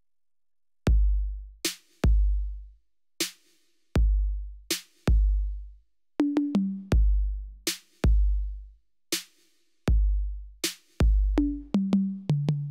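Roland SPD-SX Pro sampling pad played as an electronic drum kit: a long, deep bass drum from the foot pedal, sharp snare-like hits between them, and two quick runs of pitched tom hits stepping down in pitch, about six seconds in and near the end. The beat begins about a second in.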